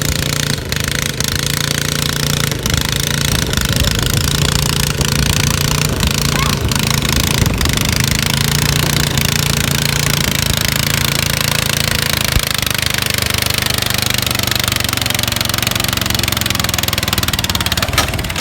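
Modified garden pulling tractor's engine running loud and steady.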